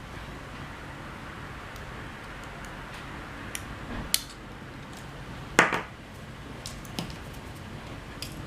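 Scattered light clicks and knocks of small hard parts and tools being handled during a drone repair, the loudest about five and a half seconds in.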